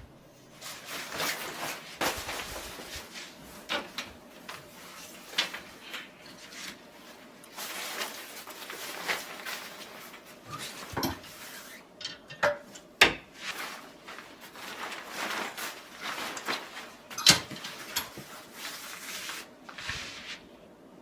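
Household handling sounds: a series of sharp knocks and clinks, the loudest two about 13 and 17 seconds in, between stretches of rustling and scraping, like dishes, utensils and drawers being handled.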